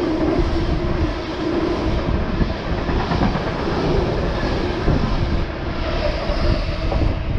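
Freight train passing through the station, a steady loud rumble of locomotive and wagons on the rails.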